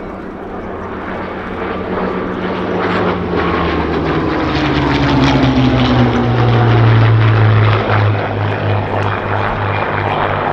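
A Rolls-Royce Merlin-engined WW2 piston fighter flying past. The engine grows louder to a peak about seven seconds in, its pitch falling as it passes, then it pulses as it draws away.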